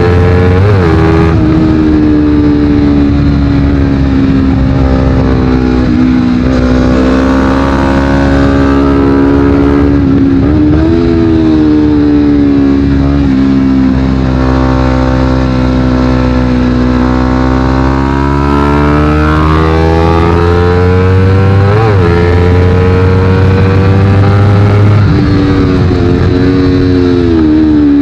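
Honda CBR250RR parallel-twin engine through a Yoshimura exhaust, being ridden hard. Its pitch climbs and falls with the throttle over several seconds at a time, with quick blips and drops at the gear changes.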